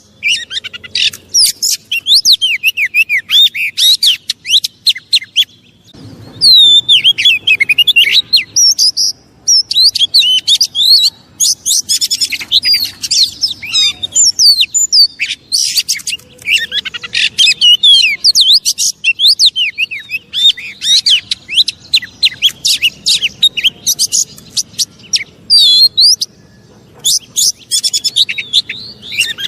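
Oriental magpie-robin (kacer) singing loudly in fast, varied whistles and chattering sweeps, broken by a few short pauses. It is an agitated, challenging song used as a lure to provoke another magpie-robin into singing.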